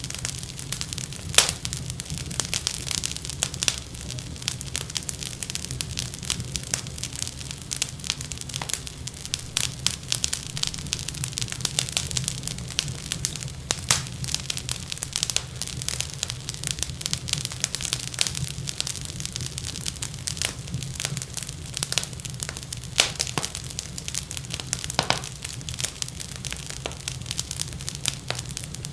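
Wood fire in a fireplace crackling and popping, with frequent sharp snaps over a steady low rumble.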